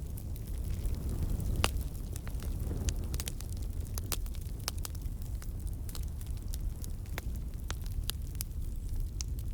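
Campfire burning: a steady low rumble of the flames with frequent sharp, irregular crackles and pops of burning wood, one louder pop about a second and a half in.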